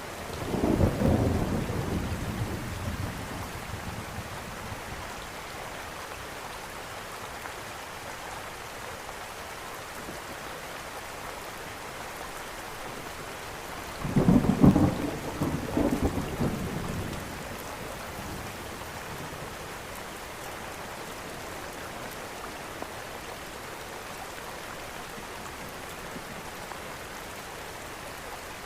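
Steady rain falling, with two low rolls of thunder: one right at the start lasting about four seconds, and a louder one about fourteen seconds in lasting about three seconds.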